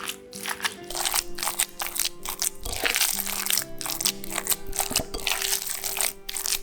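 Background music with held tones, over a dense, irregular run of crunchy, crinkling food-preparation noises.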